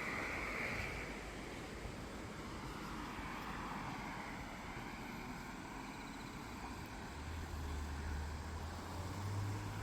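Steady outdoor rushing noise, with a low engine hum that comes in near the end and steps up once in pitch.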